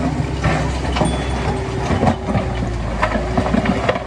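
Heavy diesel machinery running steadily at low revs, with several sharp metallic clanks and knocks.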